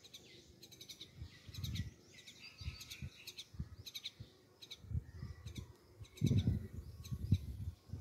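Small birds chirping: many short, high chirps repeating throughout. Low knocks and rumbles underneath, loudest about six seconds in.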